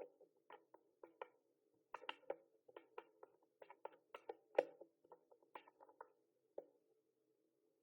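Typing on a mechanical keyboard: irregular key clicks, several a second, with a short pause near the end.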